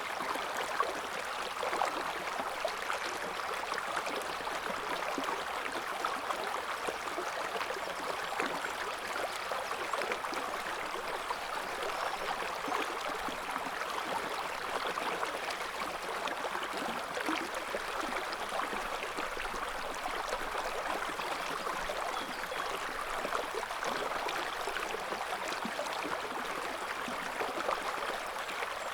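River water flowing steadily over stones, a continuous rushing and burbling with fine splashing detail.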